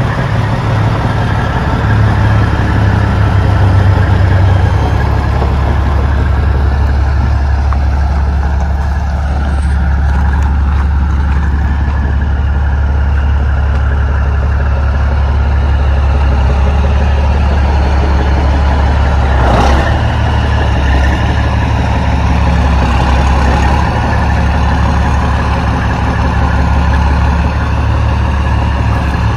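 Heavy truck's diesel engine idling steadily with a deep, even rumble. There is a brief sharp click about two-thirds of the way through.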